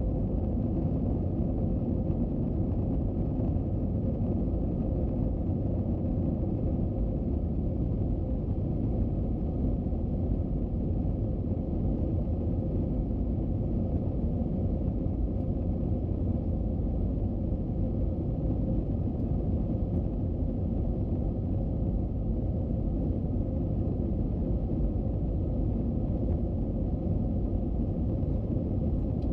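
Steady low rumble of an Airbus A321-200 airliner's engines and rushing air, unchanging throughout, with a faint steady hum in the middle of the range.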